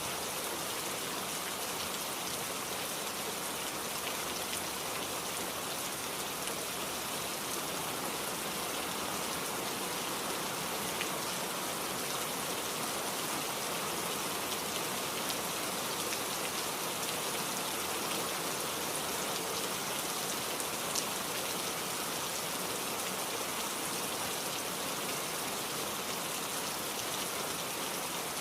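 Heavy rain falling steadily in a dense, even hiss, with a few louder drops ticking through it.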